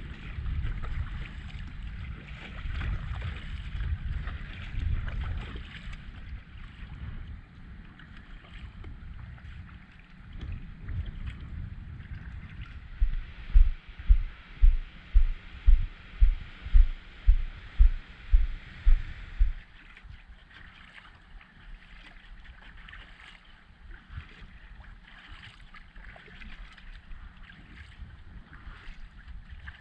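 Kayak on the water: splashing and water noise with wind rumbling on the microphone. Around the middle comes a run of regular low thumps, about two a second for six seconds, followed by quieter trickling and dripping.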